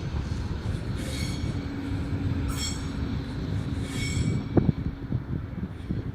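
Train wheels squealing against the rails in short high-pitched bursts, three times about a second and a half apart, over the low rumble of a slow-moving train. There is a single sharp clank about four and a half seconds in.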